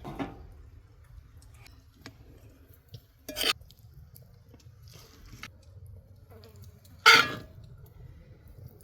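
Cooking and handling sounds: three short, loud noisy sounds about three and a half seconds apart, with faint clinks between them.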